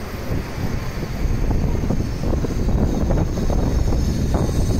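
N700S series Shinkansen train moving slowly past along the platform: a steady low rumble from its wheels and running gear.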